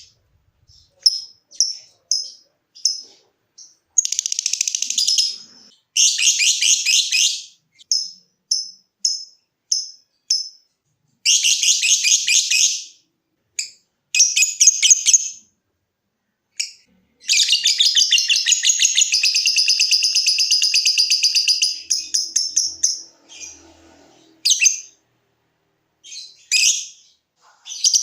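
Lovebird calling: short, sharp, high chirps one by one, broken by fast rattling trills of rapid pulses lasting a second or two. The longest trill runs about five seconds in the second half.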